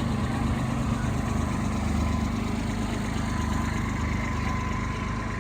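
Small engine idling steadily, a constant low hum with a faint steady whine above it.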